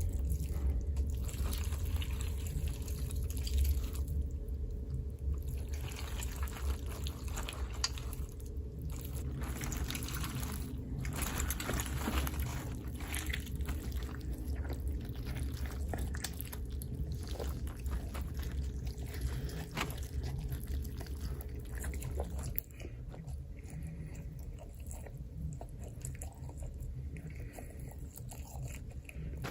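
Microwave oven running with a low hum and scattered crackling from inside. The hum cuts off about three-quarters of the way through.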